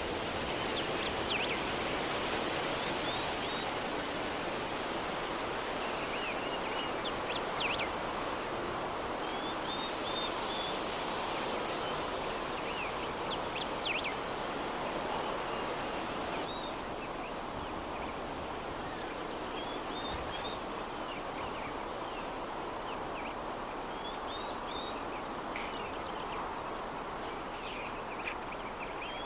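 A steady soft breeze with small birds chirping briefly every few seconds.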